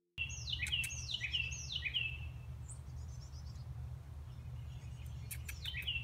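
A songbird singing a quick run of about five downslurred whistles, then starting another run near the end, over a steady low hum.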